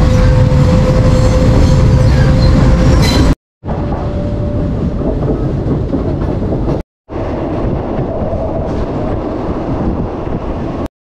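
Loud running noise of a moving passenger train heard from inside a fan-cooled second-class carriage, a steady rumble and rattle of the wheels on the rails. A steady tone rides over it for the first three seconds. The sound cuts out abruptly twice for a moment, about a third and two-thirds of the way through.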